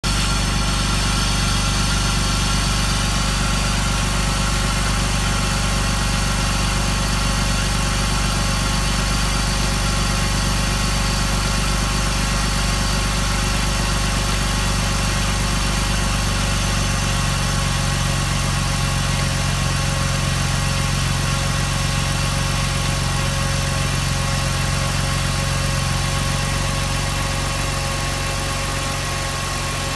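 2001 BMW 325Ci's inline-six engine idling steadily, getting slightly quieter near the end.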